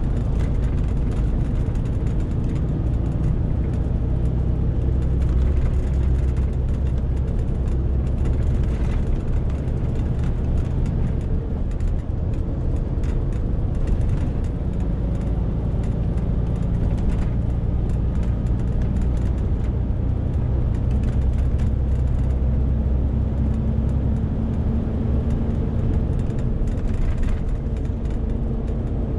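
Engine of a Renault T520 truck, loaded to 40 tonnes, running under load: a steady low drone with road noise and slight shifts in pitch partway through.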